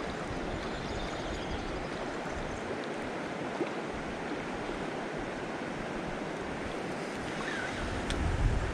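Steady rush of flowing river water. Wind starts buffeting the microphone with a low rumble near the end.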